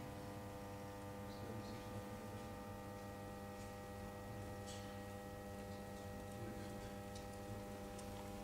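Steady electrical hum made of several fixed tones, with a few faint scattered ticks.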